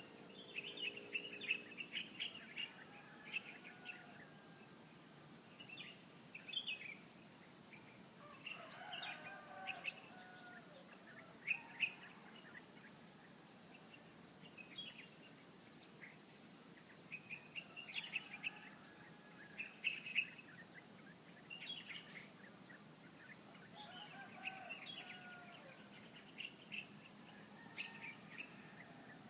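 Birds chirping in short, scattered calls, with a few lower warbling calls, over a steady high-pitched insect drone.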